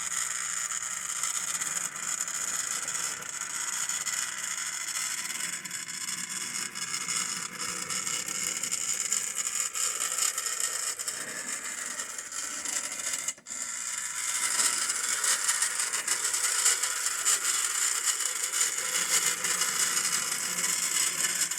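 Scratch-built brass S-gauge ten-wheeler model steam locomotive running on track: its Pittman-type electric motor and gears running with a steady scraping rattle of wheels on rails, which drops out briefly about thirteen seconds in.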